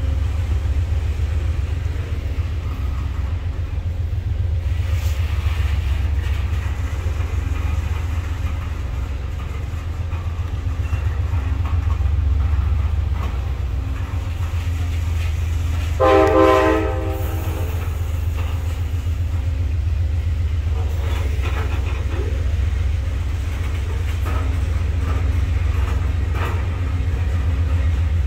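Freight train of loaded waste-container flatcars rolling past: a steady low rumble of wheels on rail with scattered clicks. About 16 seconds in, a train horn sounds once, for about a second.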